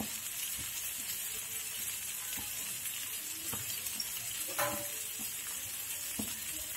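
Onions, tomatoes and mustard seeds sizzling in coconut oil in an aluminium kadai over a low gas flame: a steady hiss with scattered small pops.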